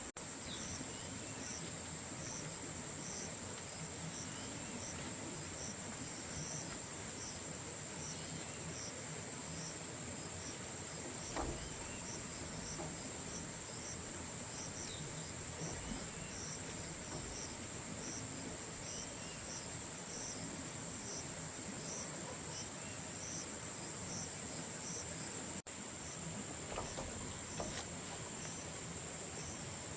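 A steady high-pitched insect chorus with a faint regular pulsing. A soft knock comes about eleven seconds in, and the sound drops out for an instant about 26 seconds in.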